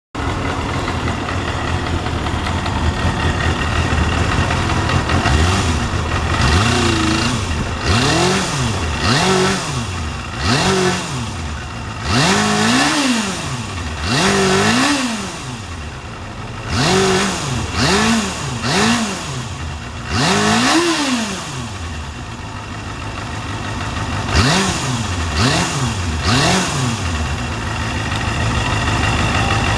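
Kawasaki Balius 250 cc inline-four motorcycle engine idling, with a dozen or so quick throttle blips in which the revs rise and fall back. It settles to a steady idle near the end.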